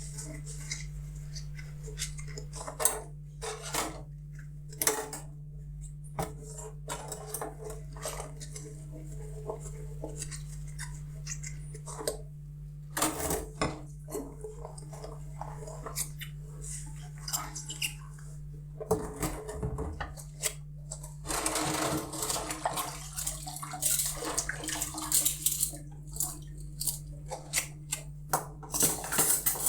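Dishes being hand-washed: repeated clinks and knocks of crockery and cutlery, with a stretch of running water about two-thirds of the way through, over a steady low hum.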